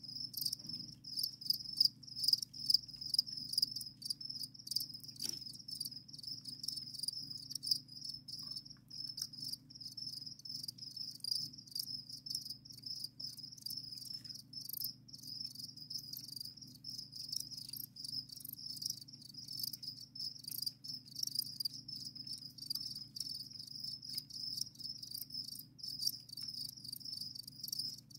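Captive crickets chirping together in a steady, continuous high-pitched chorus of rapid trills.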